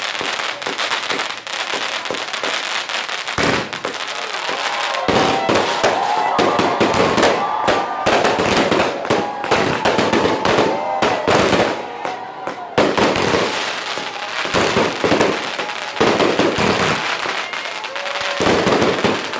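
A rapid barrage of fireworks: many cracks and bangs close together. People's voices call out over it through the middle stretch.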